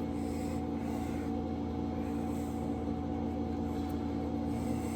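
Steady machine hum holding several fixed pitches, unchanging throughout.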